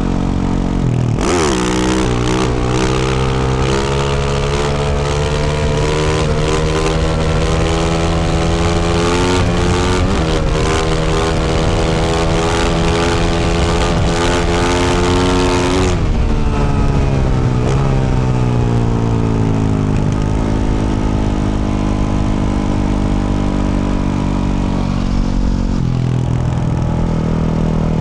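A 2024 Yamaha YZ450F's single-cylinder four-stroke engine, fitted with a Yoshimura RS-12 exhaust, being ridden. About a second in it revs up and runs hard at high revs under a loud rushing noise. At about 16 s the throttle closes, the revs fall away, and it carries on at lower, steadier revs.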